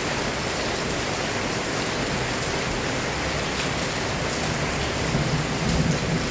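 Heavy rain falling steadily in a storm. A low rumble of thunder starts to build about five seconds in.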